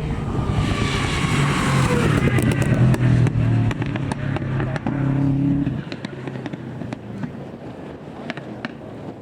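Four-wheel-drive rally car at full throttle passing by, its engine note falling in pitch as it goes past. It drops away sharply about six seconds in, leaving a run of sharp ticks and pops.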